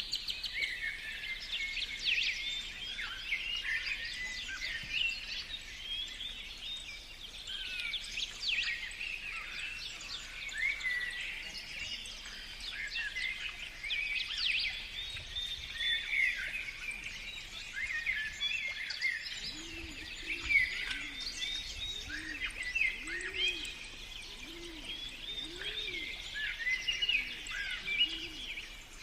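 A chorus of songbirds chirping and singing. About two-thirds of the way in, a dove starts cooing, a run of low rising-and-falling notes about once a second.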